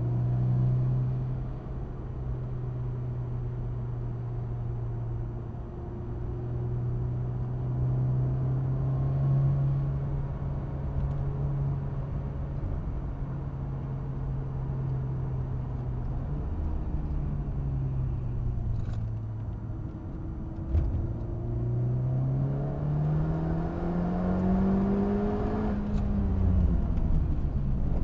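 Honda Civic Type R FK8's turbocharged four-cylinder engine heard from inside the cabin at speed on track, holding a steady pitch through a long corner. It dips slightly, then revs up for about five seconds and falls away near the end as the car brakes.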